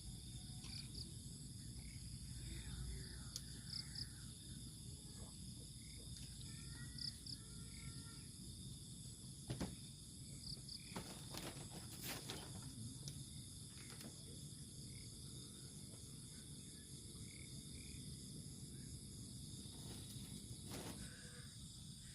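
Night insects such as crickets chirping steadily at a high pitch, with a short double chirp repeating every few seconds, and a few faint clicks.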